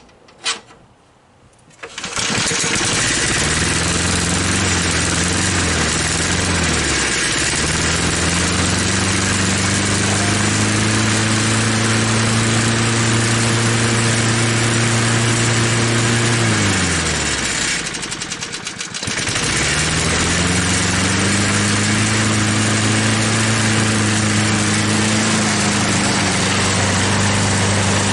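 1983 Snapper mower's small engine starting after a tune-up and running. A few seconds in its speed sags nearly to a stall and picks back up; about sixteen seconds in it slows and dies, then starts again a second or so later and runs on.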